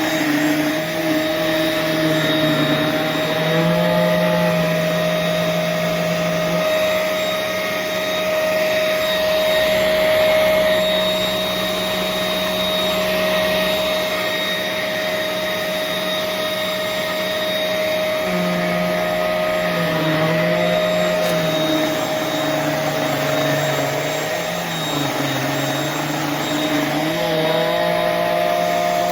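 UWANT M100 handheld futon cleaner running: a steady motor drone with a high whine, its lower hum shifting in pitch a few times.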